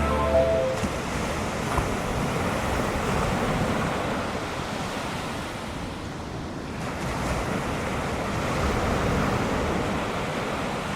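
Ocean surf breaking and washing on a beach, a steady rushing that swells and eases over several seconds, with wind on the microphone. A music track ends about a second in.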